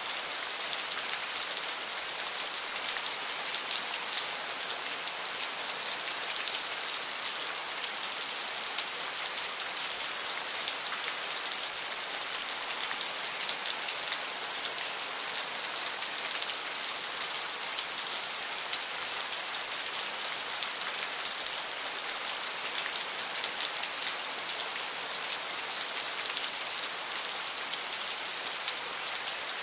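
Steady rain, an even hiss of countless drops hitting a wet surface.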